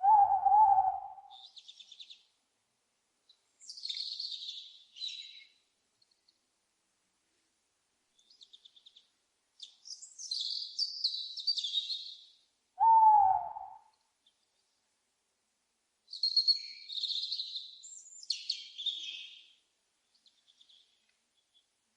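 Owl calls: two short, loud hoots about twelve seconds apart, the second one bending downward in pitch, among repeated high-pitched chirping and trilling calls.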